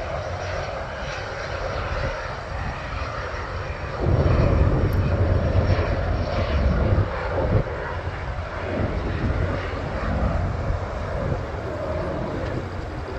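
Small business jet's engines at takeoff power, a loud steady jet noise that grows louder and deeper about four seconds in.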